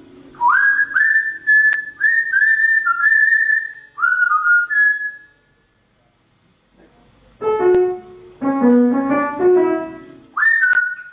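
A pet bird whistling a short tune of clear notes, each swooping up onto a held pitch. After a brief pause a few keyboard notes are played, and the bird whistles again near the end.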